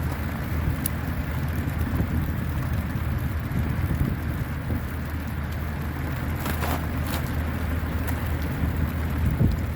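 Strong wind buffeting the microphone as a steady low rumble, with a fainter rushing hiss above it and a few faint clicks.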